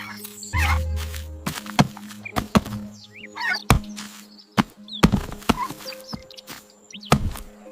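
Cartoon background music with held tones, under a string of sharp knocks and thuds and a few short chirping sound effects.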